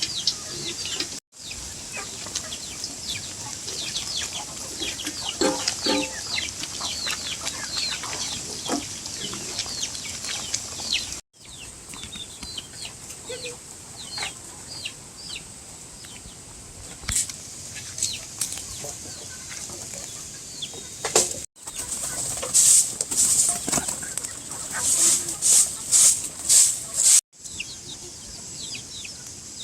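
Chickens clucking and peeping in many short calls, with a run of loud short bursts late on.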